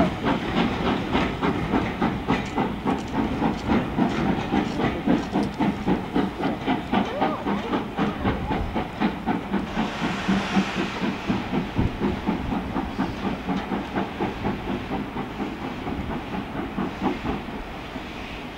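Steam locomotive King Edward, a GWR King class 4-6-0, pulling away with a rapid, even run of exhaust beats and the hiss of steam. The beats fade over the last few seconds as the engine draws away.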